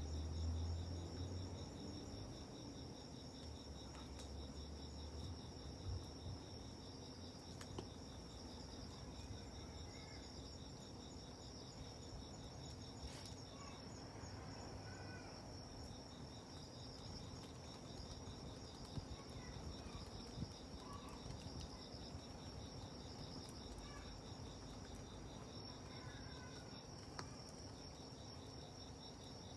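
Insects chirping steadily in two high, rapidly pulsing tones, with a few faint scattered pops from a crackling campfire.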